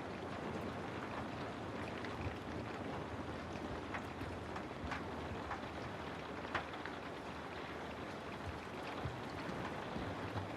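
Steady rain falling, with a dense even hiss and scattered individual drops ticking close by.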